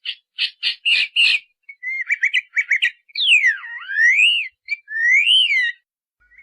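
Bird calling. It gives a series of harsh, rasping notes, then a quick run of short notes, then long whistled slurs that dip and rise.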